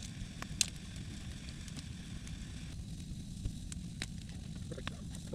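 Campfire burning, crackling with scattered sharp pops over a steady low rumble.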